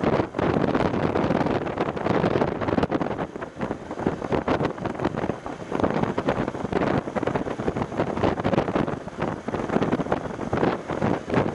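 Heavy wind buffeting on an action camera's microphone on a BMW F750GS motorcycle at riding speed, surging and easing every second or so, with no clear engine note coming through.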